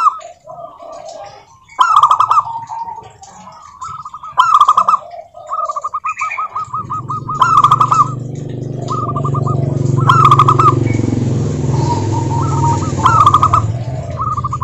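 Zebra doves cooing: rapid trilled coo phrases around a single pitch, repeated every two to three seconds. A steady low hum comes in about six and a half seconds in and carries on under the calls.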